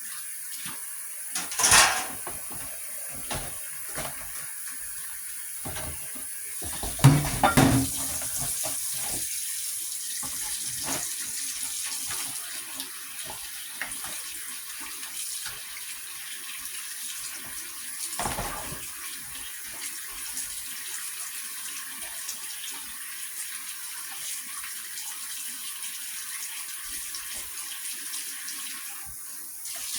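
Steady rush of running water, with a few knocks and clatters: one about two seconds in, a louder cluster around seven to eight seconds, and another near eighteen seconds.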